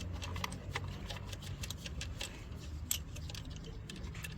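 Light, irregular metallic clicks and taps of hand tools and loosened parts being worked on a car engine, over a steady low hum.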